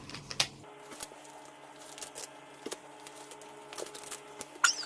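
A dog nosing and tugging at a toy's stretchy plastic wrapping inside a bag: quiet, scattered rustling and light clicks, with a short high squeak near the end.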